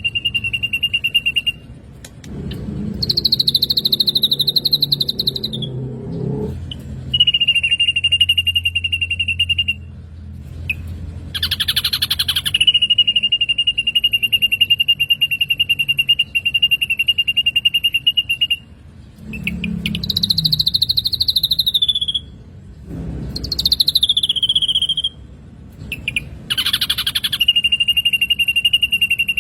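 Black drongo calls from a bird-training recording. Long, steady buzzing notes held at one pitch for several seconds alternate with shorter notes that rise and then fall.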